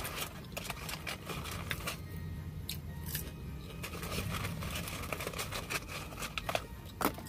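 Close-miked chewing of crunchy McDonald's french fries, with a hand rustling in the paper fry carton: a steady run of sharp crunches and crackles, the loudest near the end.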